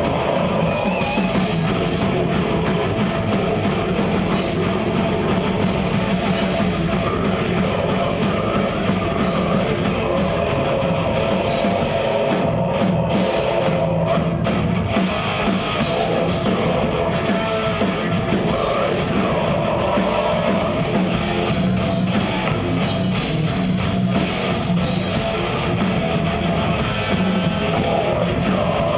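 Death metal band playing live: distorted electric guitars over a drum kit, loud and dense, with no break.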